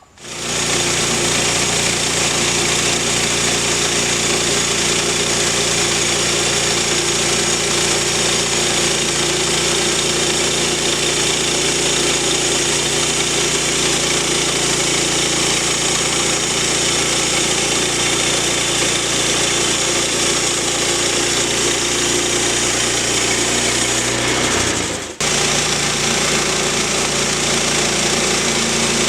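Portable sawmill's engine running steadily at a constant speed, with a brief drop about 25 seconds in before it carries on.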